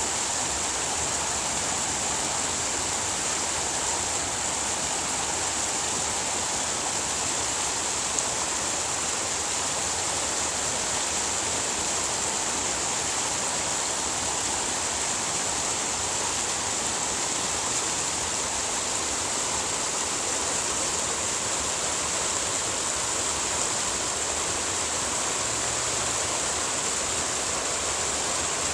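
Running water rushing steadily, an even, unbroken hiss that stays the same throughout.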